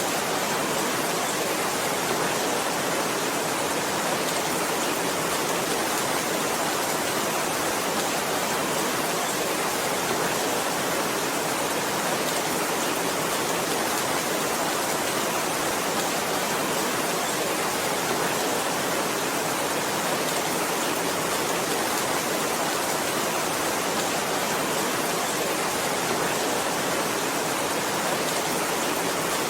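Heavy rain noise: a steady, unchanging hiss with no separate drops or thunder standing out.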